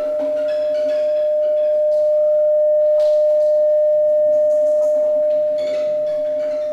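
Contemporary ensemble music for strings and Bluetooth speakers: one pitch held steadily, swelling louder and then fading, with scattered short, faint high notes above it.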